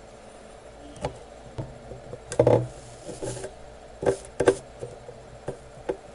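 Small tools and parts being handled on a workbench: a string of light clicks and taps, with a short rustle or scrape about two and a half seconds in, over a faint steady hum.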